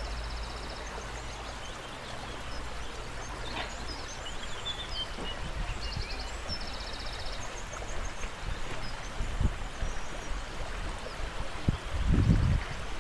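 A stream rushing steadily, with small birds giving short, high trilling calls now and then. A brief low rumble comes near the end.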